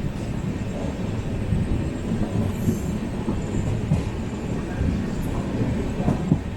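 Passenger train coach running on the rails, heard from on board: a steady low rumble of wheels and bogies with scattered knocks and clatter, one sharper knock about six seconds in.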